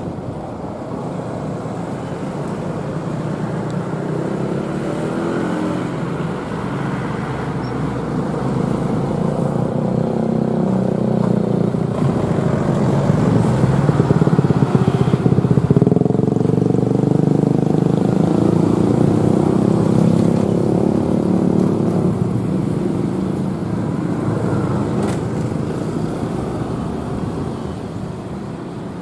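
A train passing close by: a diesel locomotive's engine and the rumble of the carriages. It builds to its loudest about halfway through, then fades.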